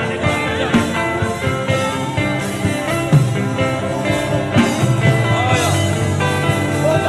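Worship music: a man humming a wordless melody with gliding notes over sustained instrumental accompaniment.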